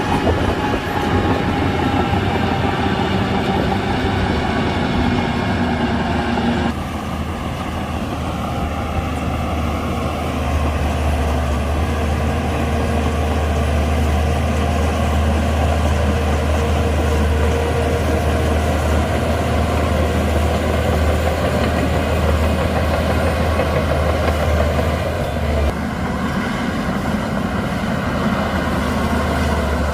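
Shantui DH17C2 bulldozer's diesel engine running steadily under working load. Its pitch and level shift abruptly about seven seconds in and again near the end.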